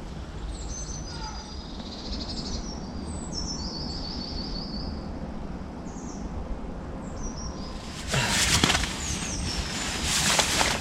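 Woodland birds singing in short trills and falling phrases over a steady low background noise. About eight seconds in, loud rustling of handled gear takes over.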